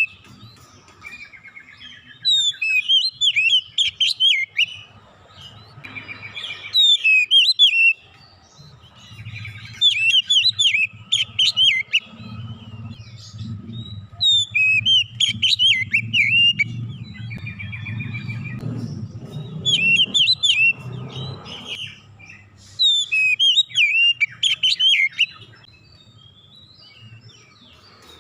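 Oriental magpie-robin (kacer) singing loud bursts of rapid, varied whistled phrases every few seconds, a song stuffed with mimicked calls (isian).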